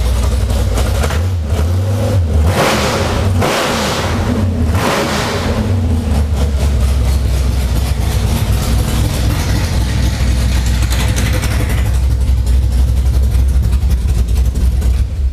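1967 Dodge Coronet's 440 big-block V8 with a Hughes Whiplash camshaft running: revved up twice in the first few seconds, then settling into a steady idle.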